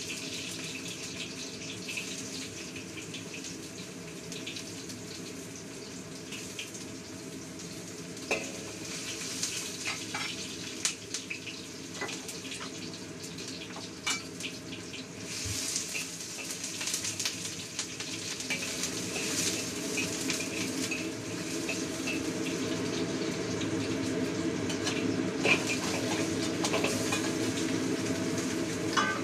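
Chunks of chicken and pork trotter sizzling in hot oil in a wok, the frying growing louder toward the end as more meat goes in, with a few sharp clicks of a utensil against the pan.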